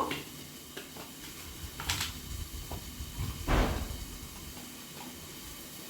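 Kitchen items being handled: a sharp click about two seconds in, then a louder knock with a dull thud a second and a half later.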